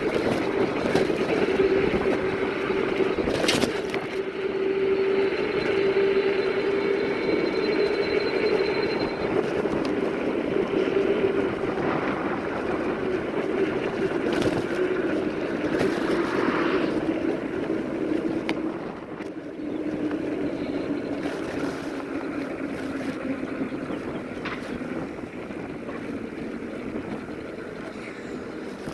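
Electric fat-tire bike riding along: a steady running hum under wind noise on the microphone. The hum drops in pitch and level after about 17 seconds as the bike slows.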